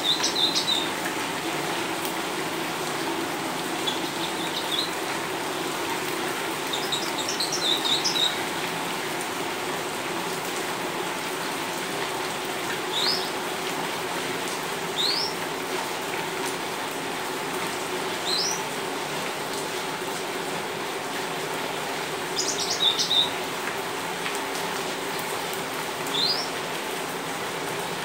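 Steady rain falling on a paved patio, with birds giving short rising chirps every few seconds and a few quick clusters of chirps.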